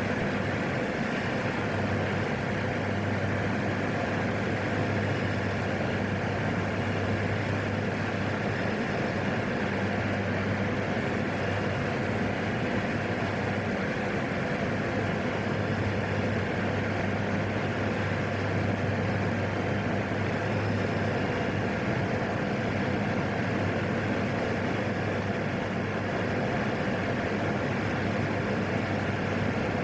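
Steady drone of a PAC 750XL's single turboprop engine and propeller in flight, heard from inside the cockpit, with a faint high whine held throughout.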